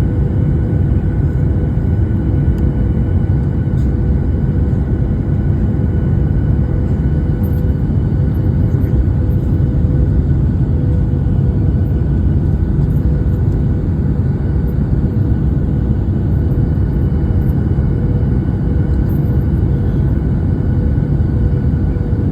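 Steady engine and airflow rumble heard inside a passenger airliner cabin in flight, with a constant hum at a few fixed pitches over the low drone.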